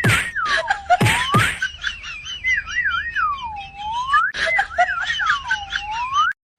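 A whistle-like tone swooping down and back up again and again, with a few quick falling zips mixed in; it cuts off suddenly just before the end.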